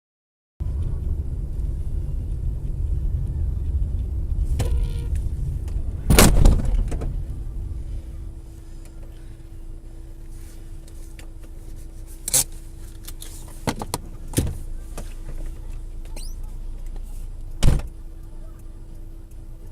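A car driving, with a heavy low road-and-engine rumble, and a loud sharp thump about six seconds in, typical of an impact in a crash compilation. After it the rumble drops to a quieter steady noise with a low hum, broken by a few short knocks or clicks.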